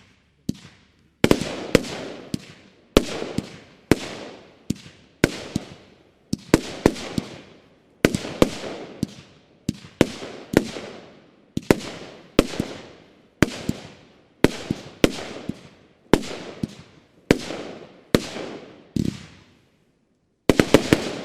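Nordlicht 'Ultra' consumer firework battery firing shot after shot, about one a second. Each shot is a sharp bang with a fading tail, and the battery ends with a quick cluster of several shots together.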